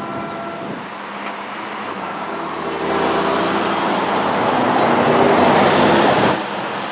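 NJ Transit train X239, led by ALP-45DP dual-mode locomotive #4515, approaching: a steady rumble with engine tones that builds over several seconds. It drops off suddenly near the end.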